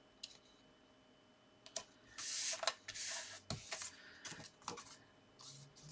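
Paper and card being handled as an insert is stuck inside a card: a brief dry rustle about two seconds in, then a scatter of light taps and clicks.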